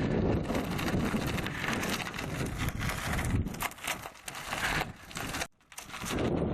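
Riding noise from a bicycle descending a mountain road: wind buffeting the head-mounted microphone over the crunch and rattle of tyres on a rough, gravelly surface. The noise drops away briefly about five and a half seconds in, then returns.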